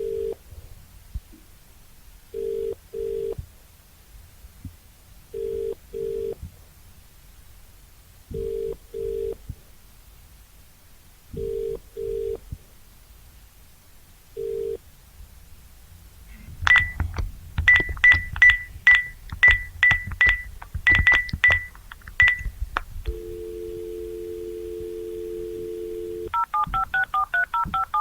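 Telephone sound effects in sequence: a low double-ring ringback tone repeating about every three seconds, then a quick run of clicks with high beeps, then a steady dial tone for about three seconds, then touch-tone keypad dialing near the end.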